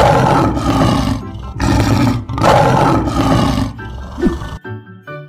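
Lion roaring: several loud, rough roars one after another that stop about four and a half seconds in, with light background music underneath.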